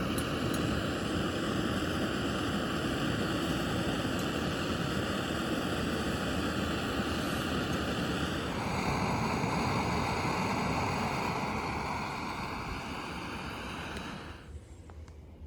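MSR Pocket Rocket canister stove burning steadily under a pot of water being heated to the boil. Faint tones in the noise change pitch about halfway through, and the sound drops away near the end.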